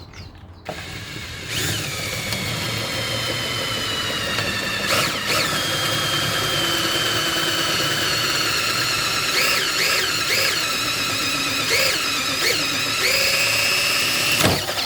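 Power drill spinning a hole saw as it cuts a hole through wood and an acrylic panel, its whine dipping in pitch several times as the saw bites under load. It starts about a second in and stops just before the end.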